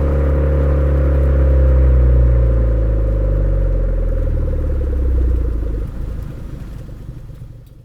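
Suzuki Swift Sport ZC33S's 1.4-litre turbocharged four-cylinder running through a Fujitsubo aftermarket exhaust, a steady low exhaust note that eases slightly in pitch. The sound drops at about six seconds in and fades out over the last two seconds.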